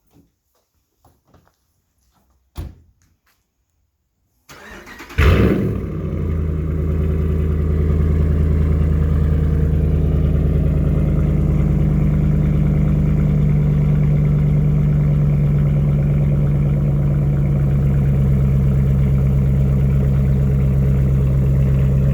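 Ram 1500 pickup with muffler and resonators deleted (straight pipe, stock catalytic converters) starting up: a brief crank about five seconds in, a loud flare as the engine catches, then a steady idle. Before the start, a few faint clicks and a single knock.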